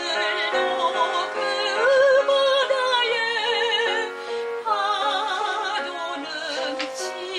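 A soprano singing a Korean art song in operatic style, holding long notes with wide vibrato, over piano accompaniment.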